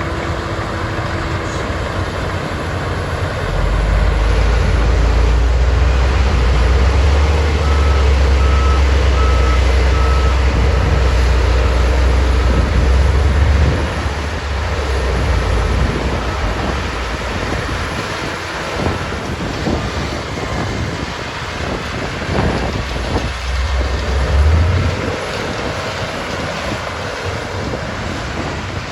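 Heavy construction vehicle running close by, its engine rumble loud for about ten seconds and then easing off, with a reversing alarm beeping four times partway through. Wind noise on the microphone throughout.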